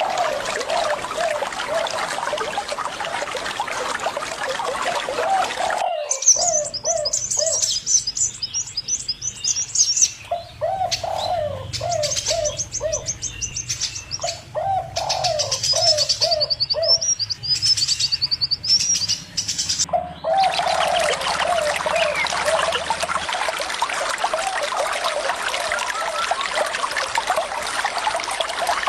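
Flowing water with birds calling: one bird gives quick series of low, repeated notes throughout, and a small bird's high trilling chirps join in the middle stretch. The water sound cuts out suddenly about six seconds in and returns just as suddenly about twenty seconds in.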